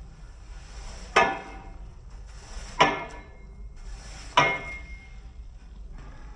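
Three sharp knocks, evenly spaced about a second and a half apart, each ringing briefly.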